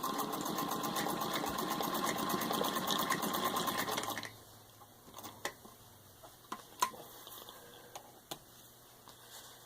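1923 Singer 66-4 sewing machine stitching through six layers of denim, a fast even run of needle strokes that stops suddenly about four seconds in. A few separate clicks follow.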